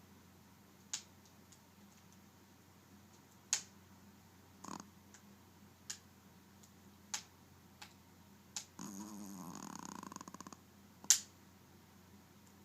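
A sleeping dog snoring: sharp clicks every one to two and a half seconds as it breathes, a short snort about five seconds in, and one rattling snore of nearly two seconds in the last third. The loudest sound is a click near the end.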